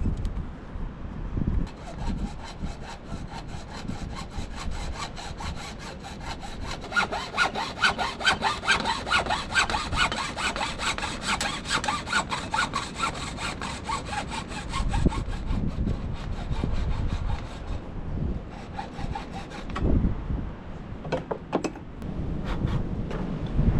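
Hand saw cutting through wood in steady back-and-forth strokes. The sawing stops about eighteen seconds in, and a few sharp knocks follow.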